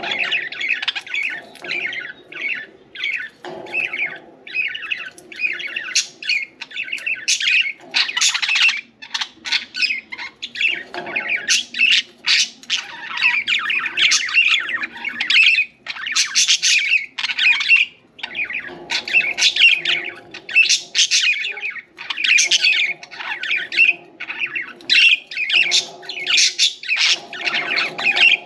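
Pet budgerigars (parakeets) chattering and chirping without a break: a dense run of short, high chirps and squawky warbles from several birds.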